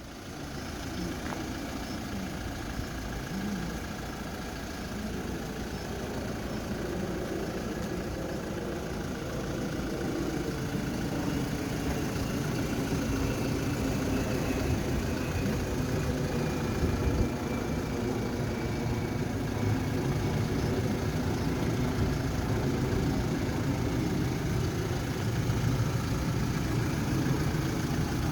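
Kia Bongo III cargo truck's 3000cc diesel engine running steadily, most likely at idle, with a low drone that comes in suddenly at the start and grows slightly louder over the first several seconds.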